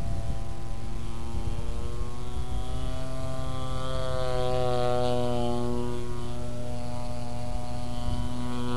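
Engine and propeller of a large radio-controlled model airplane running steadily, the pitch drifting slightly up and down.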